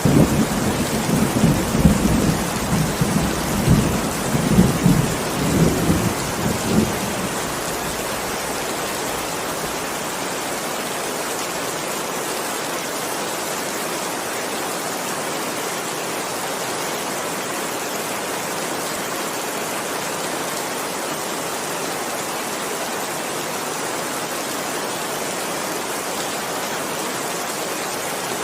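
Steady heavy rain with a rolling rumble of thunder that swells and churns over the first seven seconds or so and then dies away, leaving the rain alone.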